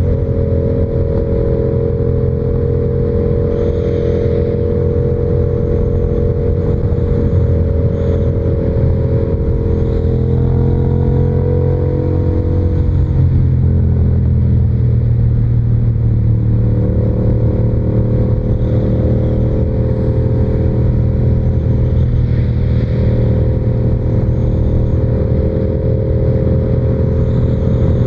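Yamaha R7's parallel-twin engine running under way at steady revs. The engine note falls about ten seconds in as the rider eases off, then holds and climbs a little again.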